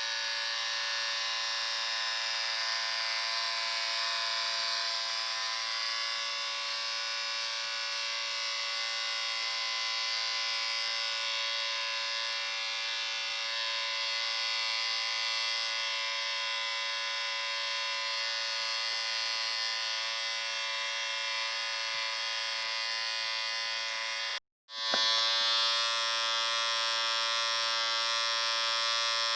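Electric shaver buzzing steadily. About three-quarters of the way through it cuts out for a split second, then comes back slightly louder with a stronger low hum.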